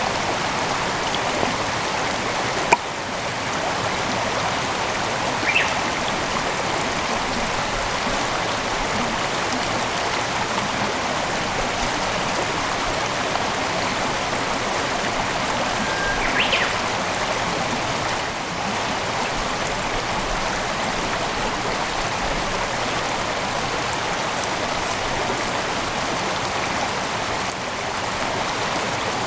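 Mountain headwater stream flowing steadily over rocks, with a sharp click about three seconds in and a couple of brief high chirps.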